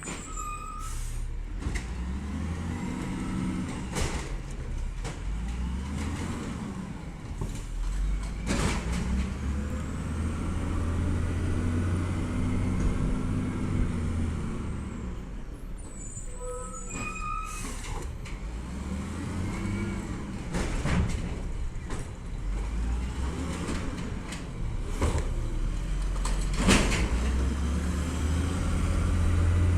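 Peterbilt 320 automated side-loader garbage truck running, its engine revving up and settling back down several times, with a few short sharp noises along the way.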